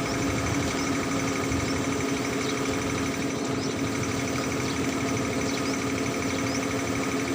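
A machine running steadily with a constant hum, unchanging throughout.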